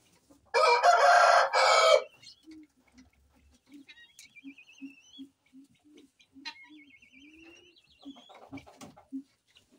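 A rooster crows loudly once, in two parts, then softer clucking and rising chirping calls from poultry follow.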